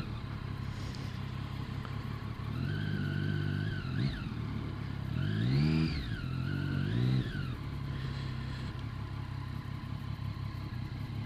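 Motorcycle engine running under way, its revs climbing and dropping several times as the bike pulls away and shifts, over steady riding noise.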